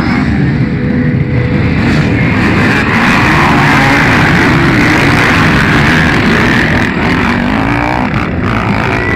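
Motocross bikes racing past, their engines revving up and down as they go through the curve. The sound is loudest in the middle and eases off near the end.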